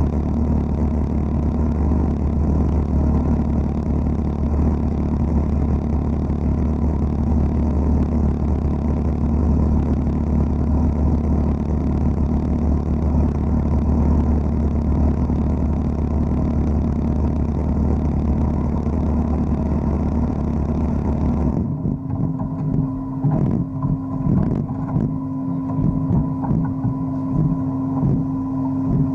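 Wet-blasting (aquablasting) cabinet running: a steady low hum under a broad hiss. About three-quarters of the way through the hiss and low hum cut off suddenly, leaving a steadier, higher hum with irregular knocks.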